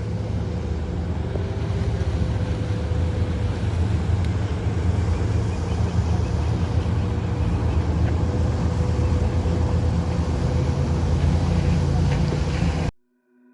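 Outdoor ambience made up mostly of a steady low rumble, cut off abruptly near the end.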